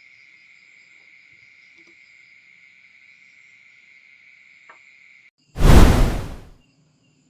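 A steady high-pitched insect trill, like crickets, for about five seconds. It stops, and a loud burst of rushing noise follows, fading away within about a second.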